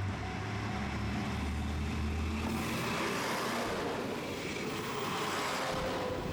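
Diesel railcar passing over the level crossing: a low engine drone for the first two and a half seconds, then a steady rushing of wheels on rail. The crossing's warning bell rings on and off and fades out about a second in.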